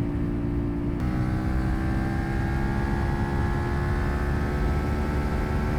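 CFMOTO 450SS parallel-twin motorcycle engine running while riding, with a low wind rumble. About a second in its note changes abruptly, then the pitch drifts slowly down as the revs ease off.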